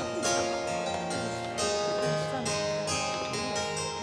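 Harpsichord music playing a classical-style dance tune of crisp, quick plucked notes.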